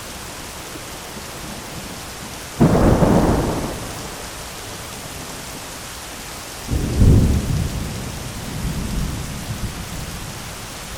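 Steady heavy rain with two sudden claps of thunder, the first about two and a half seconds in and dying away within about a second and a half, the second about seven seconds in and rumbling on unevenly for a few seconds.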